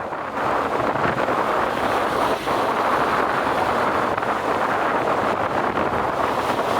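Strong wind blowing across the microphone by the sea, a steady rushing noise that grows louder about half a second in.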